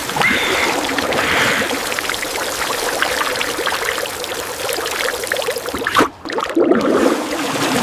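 Water gushing and splashing for a rinse, a continuous rushing pour that breaks off briefly about six seconds in and then resumes.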